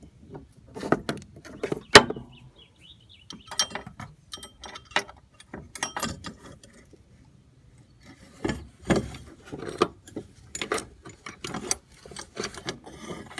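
Irregular clanks, clicks and knocks of metal parts being handled while working on a lawn mower, with one sharp knock about two seconds in.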